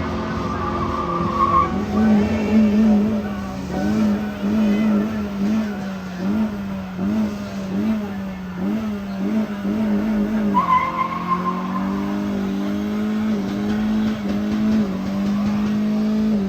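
Car doing a burnout: the engine is held at high revs and pulses up and down about every half second while the tyres skid. A high tyre squeal sounds near the start and again about two-thirds through.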